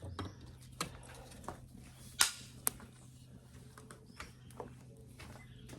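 Thin dry twigs crackling and snapping in a small, newly caught campfire as they are piled together: scattered sharp snaps, the loudest about two seconds in, over a faint steady low hum.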